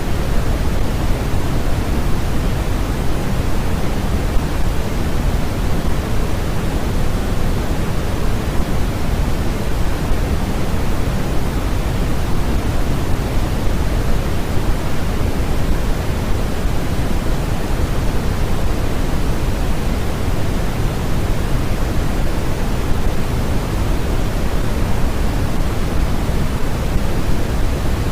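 Steady electronic noise from a white-noise track: a constant even hiss with no changes, heavier in the low end than the highs, like pink noise.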